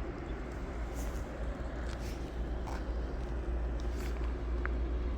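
Outdoor ambience in heavy, windless snowfall: a steady low rumble and hiss, with a few faint ticks.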